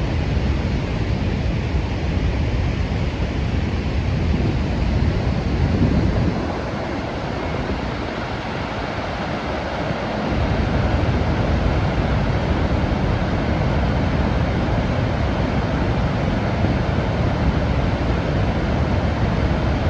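Niagara Falls' water roaring steadily, a dense even rush mixed with low wind rumble on the microphone. The low rumble drops away for about four seconds partway through, then comes back.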